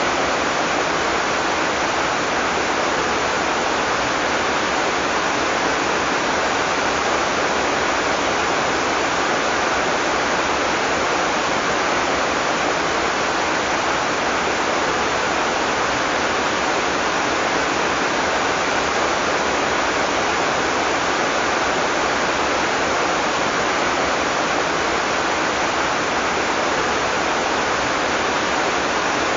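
Heavy tropical rain falling in a steady, unbroken hiss, with no thunder.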